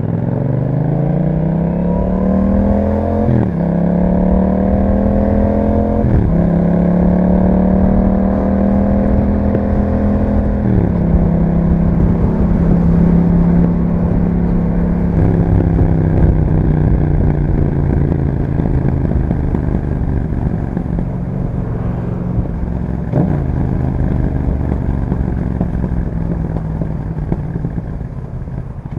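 2021 Yamaha MT-07's 689 cc parallel-twin engine through an Akrapovic exhaust, accelerating hard through the gears. The pitch climbs and drops at upshifts about 3, 6, 11 and 15 seconds in, then settles into a steady cruise that eases off slowly near the end.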